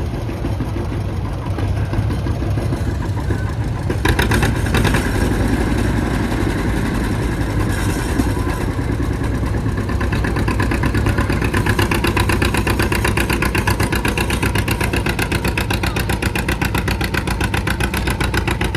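John Deere B two-cylinder tractor engine working hard under load while pulling the sled, with its even, rapid exhaust beat. It gets louder about four seconds in, and the beat stands out more clearly in the second half.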